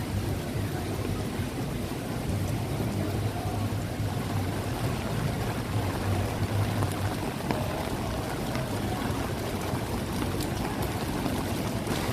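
Steady rain falling, mixed with the low rumble of street traffic.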